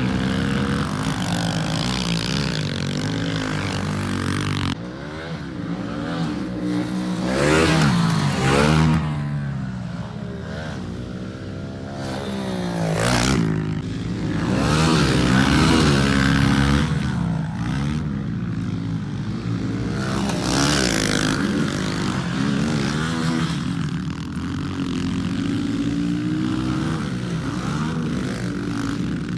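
Pit bike engine revving up and down as it is ridden, its pitch rising and falling again and again with the throttle and shifts. The sound changes abruptly about five seconds in.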